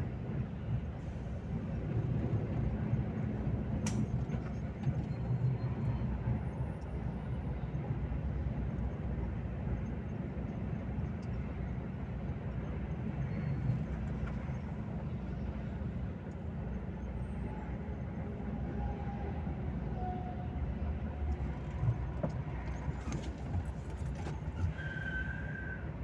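Volvo FH 460 truck's 13-litre straight-six diesel running steadily under way, with a low rumble and road noise.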